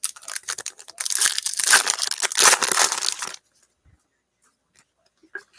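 A trading-card pack wrapper being torn open and crinkled, a dense rustle for about three and a half seconds that stops suddenly, followed by a few faint ticks.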